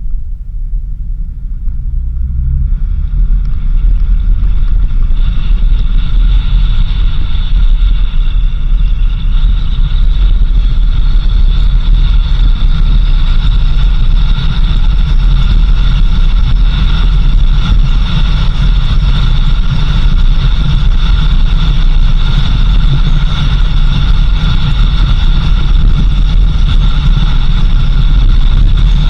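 Vehicle driving on a dirt road: a heavy, continuous low rumble of road and wind noise, with steady high-pitched tones above it. It builds over the first few seconds, then holds steady.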